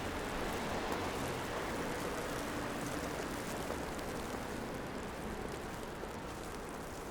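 Steady hiss of downtown street ambience, with traffic running on wet, snowy roads. It eases off slightly toward the end.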